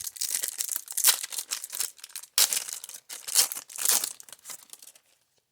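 A baseball card pack wrapper crinkling and tearing as it is opened by hand, in crackly bursts that stop a little after five seconds.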